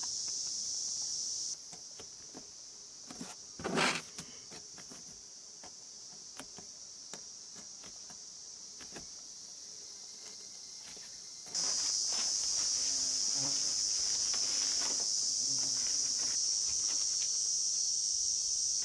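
Steady high-pitched chorus of night insects, such as crickets. It drops in level about a second and a half in and comes back louder near the twelfth second. Scattered light clicks and one louder short rustle about four seconds in.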